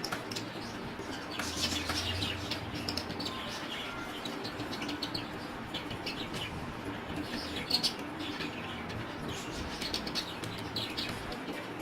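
Budgerigars chirping and warbling: a busy run of short, high chirps that comes and goes.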